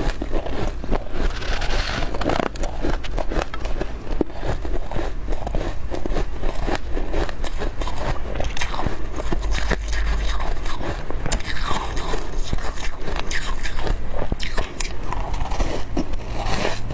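Close-miked biting and chewing of soft, powdery freezer frost, a dense run of small crisp crunches and crackles.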